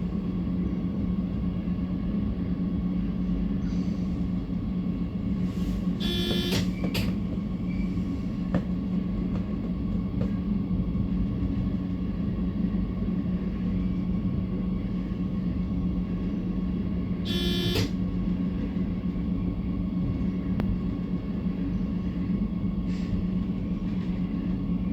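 Train standing with a steady low hum and rumble. Two short shrill tones cut through it, once about a quarter of the way through and again about two-thirds of the way through.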